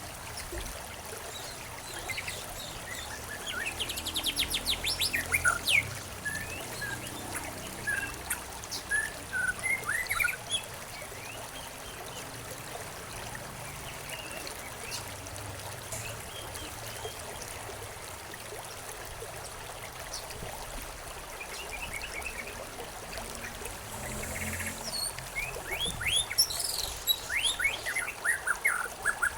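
Several birds chirping and trilling in short bursts, busiest early on and again near the end, over a soft steady trickle of running water.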